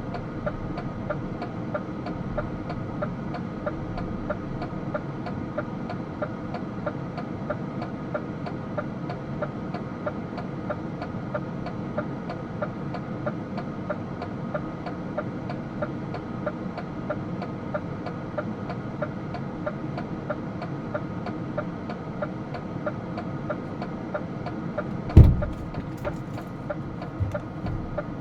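DAF truck engine running steadily, heard from inside the cab, with a fast, even ticking throughout. One loud thump comes near the end.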